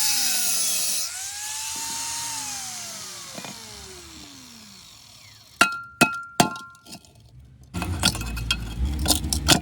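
Electric cutting tool on a fridge compressor's steel shell: the cutting noise stops about a second in and the motor's whine winds down slowly in pitch. Then three sharp ringing metallic clinks, and metal parts clattering near the end.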